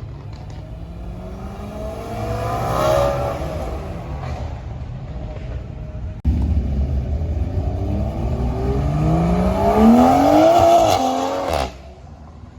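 High-performance car engines accelerating hard, their pitch climbing. One rises to a peak about three seconds in; after an abrupt change about six seconds in, a second pull climbs to the loudest point near eleven seconds and cuts off suddenly.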